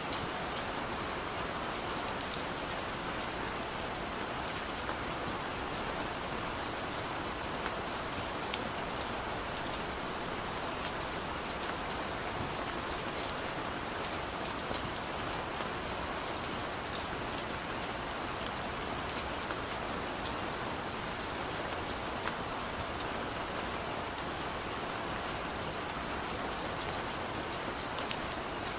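Heavy rain falling steadily on a tent, with many sharper single drop hits scattered through it.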